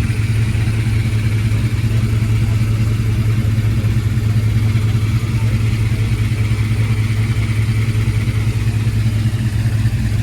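A car engine idling steadily with an even, low rumble, loud and close.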